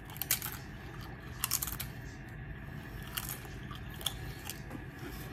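Biting into and chewing a thin, crispy tortilla chip topped with pico salsa: irregular crunches, with a cluster of them about a second and a half in.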